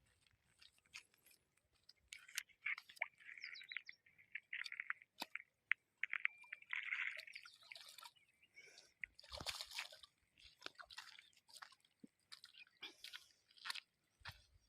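Small birds chirping faintly, mixed with scattered soft clicks and rustles.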